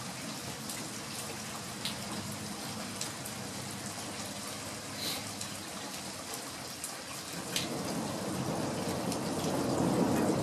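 Steady rain falling on a house's eaves and gutters, with scattered sharp drips and taps. Near the end the sound swells louder and deeper.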